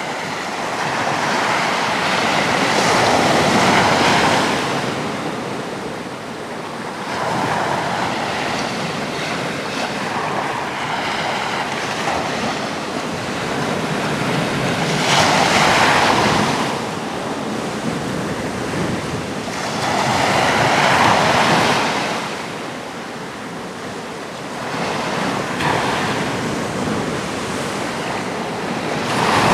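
Atlantic sea waves breaking on a rocky shore, the surf swelling and easing every few seconds, with a few louder breakers standing out.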